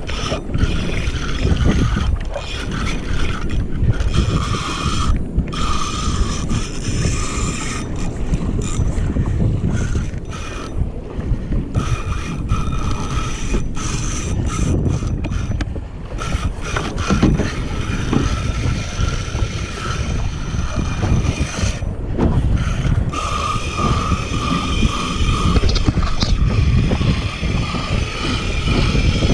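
Fishing reel whirring in long stretches, over a heavy rumble of wind and water on the microphone.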